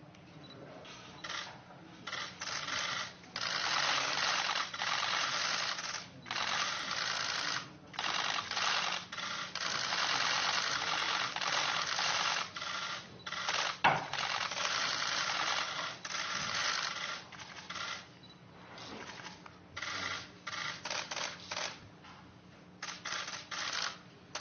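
Many press camera shutters firing in rapid bursts, a dense clatter of clicks that swells and breaks off in stretches of one to a few seconds.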